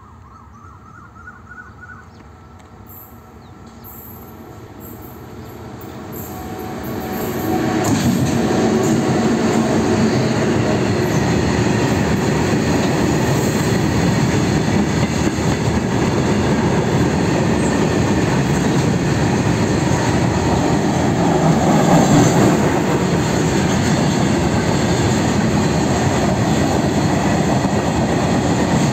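A freight train of open-top box wagons approaching and passing close by: its rumble grows louder over the first eight seconds or so, then the wheels and wagons run past in a steady loud rumble and rattle.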